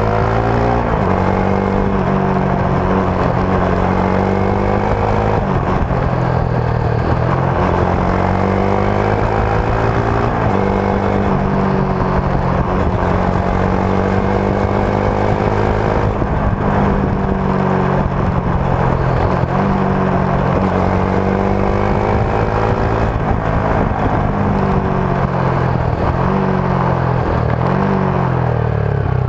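Rusi Sigma 250 motorcycle's stock exhaust while riding, engine pitch rising and dropping several times as it revs up and shifts through the gears, over wind and road noise.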